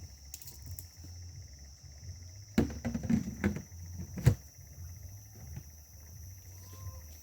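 Crickets chirring steadily through the night, with a cluster of sharp knocks and clicks a little after two and a half seconds in, the loudest one about four seconds in.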